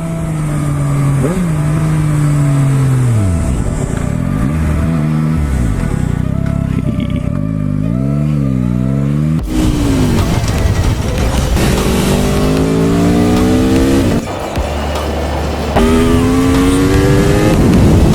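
Sport motorcycle engine revving up and down, then accelerating hard, its pitch climbing steadily in each gear with a short break at a gear change about 14 s in.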